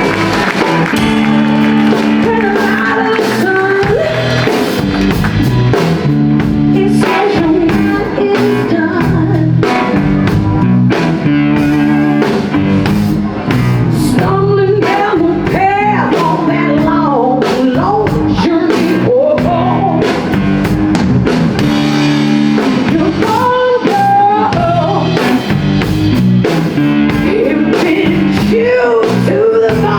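A live blues-rock band playing with drum kit, bass and electric guitar, and a voice singing over them.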